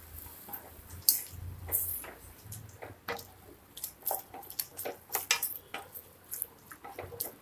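Wooden spatula stirring vegetables and wet ground masala in a stainless steel pressure cooker: irregular scrapes, squishes and light taps against the pot.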